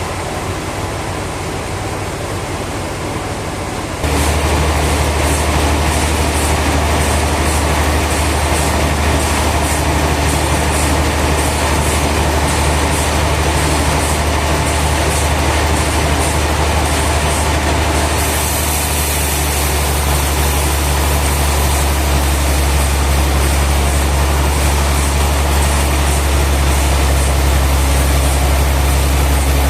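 Sawmill machinery running steadily, a loud low hum under a hiss of noise, growing louder suddenly about four seconds in.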